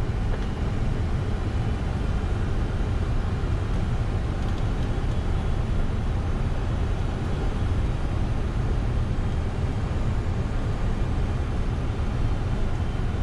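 Steady low rumble of airflow and engines inside the flight deck of a Boeing 747-400ERF freighter on approach, even and unbroken.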